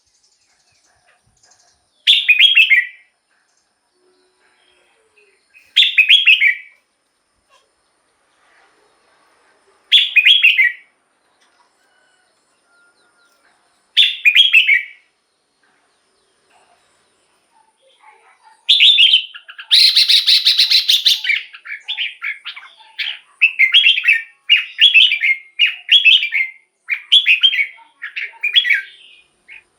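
Red-whiskered bulbul singing: short, bright warbled phrases under a second long, about every four seconds, then from about 18 seconds in a quicker run of phrases with a louder, harsher burst near 20 seconds.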